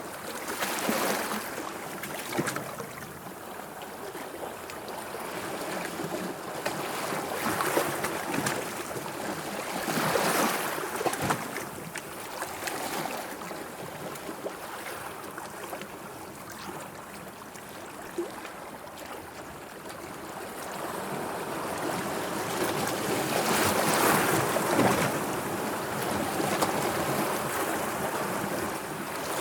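Sea waves washing in, a steady rush with several louder surges a few seconds apart, the biggest near the end.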